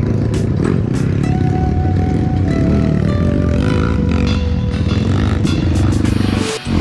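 Trail motorcycle engine running under load as the dirt bike is ridden, with the engine note shifting in pitch; the sound dips briefly near the end.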